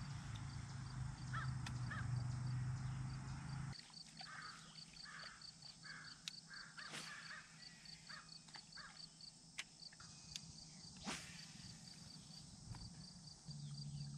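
Birds calling outdoors: a run of short repeated calls, about two or three a second, in the middle, over a fast, even, high-pitched ticking chirp. A low steady hum cuts off about four seconds in, and a few sharp clicks stand out.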